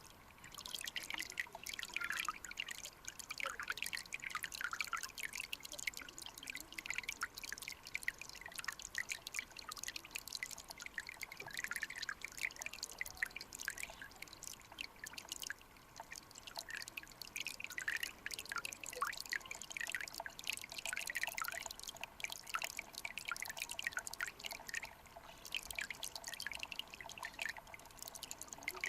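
Mountain stream water trickling and splashing over rocks, full of small irregular plinking drips.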